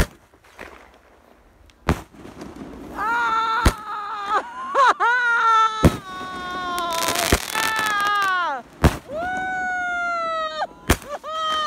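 Fireworks going off: six sharp bangs spaced about two seconds apart. From about three seconds in until near the end, loud drawn-out wailing tones sound between them, each wavering and dropping in pitch as it ends.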